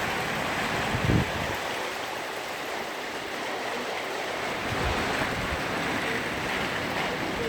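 Hail falling steadily, a dense even hiss, with a few brief low thumps about a second in and again near five seconds.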